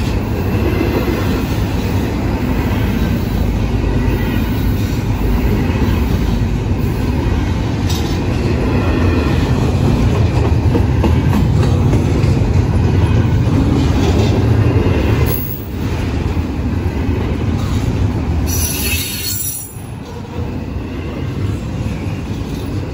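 Freight train rolling past, its cars rumbling steadily over the rails with some high wheel squeal. The rumble drops off a bit after about two-thirds, with a brief high hiss shortly after.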